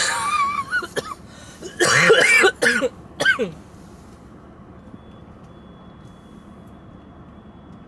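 A woman coughing hard in several fits over the first three or so seconds, a chest cough from bronchitis, followed by a steady low background hum.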